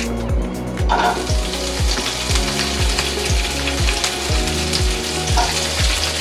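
Snow peas sizzling in hot olive oil in a frying pan, the sizzle rising in about a second in. Background music with a steady beat runs underneath.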